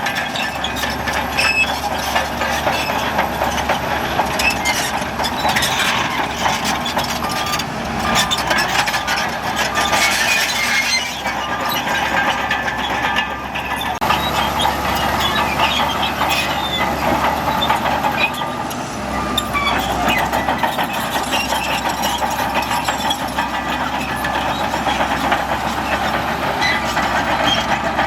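Shantui crawler bulldozer working: its diesel engine running steadily under load while the steel tracks clank and rattle continuously.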